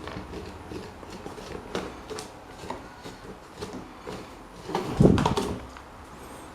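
Scattered light clicks and taps of small metal parts and tools being handled on a workbench, with one louder knock and clatter about five seconds in.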